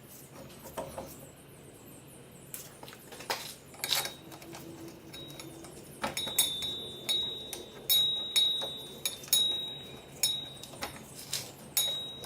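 Metal tapping on metal during work on a car's drivetrain: scattered clicks at first, then from about six seconds in a run of sharp strikes, roughly two a second, each leaving a brief high ring.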